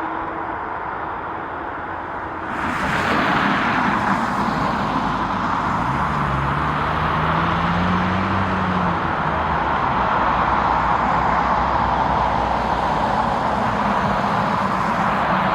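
Jet airliner engine noise, a steady rush that grows suddenly louder about two and a half seconds in and then holds, with a faint low hum rising in pitch in the middle.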